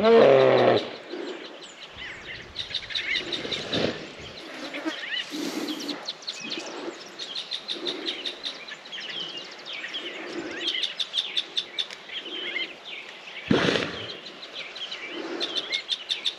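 Wild birds chirping and calling repeatedly, many short quick notes, over an outdoor background. A louder low-pitched call sounds right at the start, and a short loud burst comes near the end.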